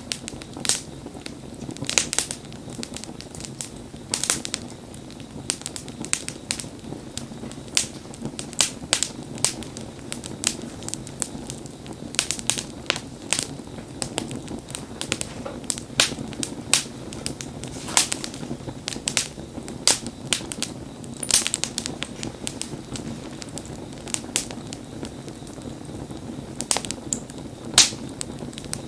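Wood fire burning, with frequent sharp irregular crackles and pops over a steady low hiss of flame.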